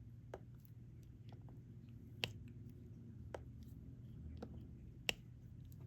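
Sharp small clicks and taps of a diamond-painting pen setting resin drills onto the sticky canvas, about one every second or so, with two louder taps about two seconds in and near the end.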